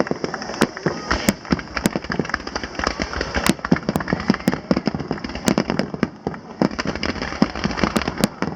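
Fireworks going off in rapid, irregular succession: many sharp cracks and bangs overlapping one another in a dense crackling stream.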